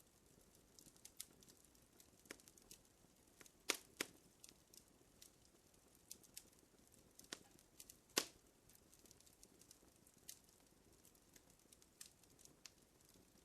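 Fire crackling: irregular sharp pops and snaps over a faint hiss, the loudest a pair of pops a little under four seconds in and one about eight seconds in.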